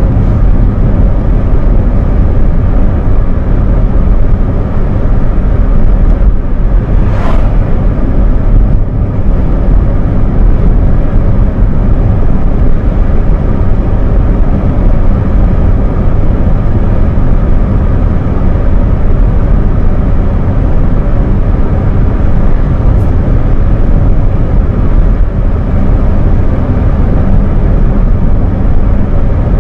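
Opel Astra G's 1.6 8V (Z16SE) petrol inline-four cruising at a steady low load around 2,000 rpm, about 60 km/h, heard from inside the cabin mixed with a steady low road and tyre rumble. A brief whoosh about seven seconds in.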